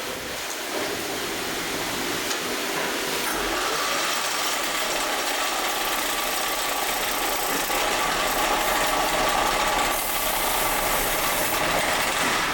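Factory machinery running steadily, a continuous mechanical noise with a faint steady hum underneath.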